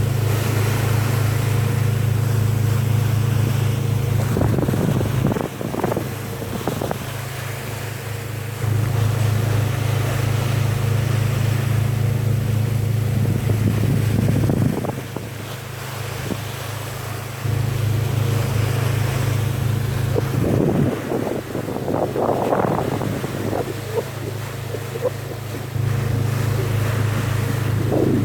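A boat's engine runs with a steady low drone under wind on the microphone and sea noise. The drone drops away and comes back several times with sudden edges.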